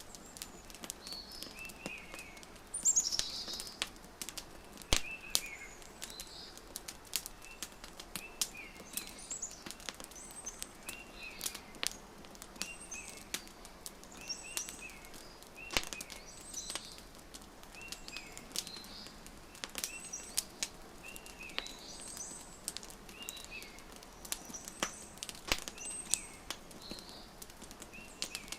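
Wood fire crackling with frequent sharp pops, mixed with small birds chirping in short phrases repeated every second or two. A brighter, falling bird call stands out about three seconds in.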